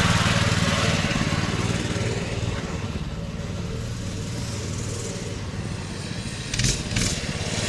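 Motorcycle engines running steadily, loudest at the start and easing off a little. Two short sharp clicks come near the end.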